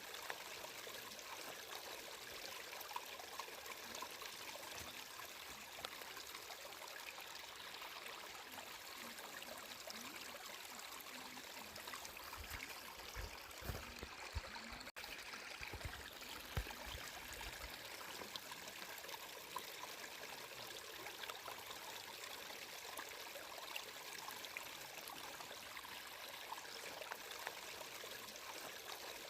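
Water flowing and trickling steadily in an even, gentle rush. A few low thumps come about halfway through.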